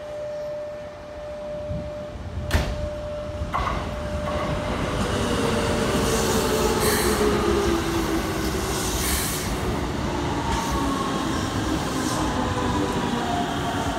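Keikyu 1500-series electric train pulling into the station, its wheels clacking over rail joints, with a whine that falls in pitch as it slows. A single sharp knock comes about two and a half seconds in.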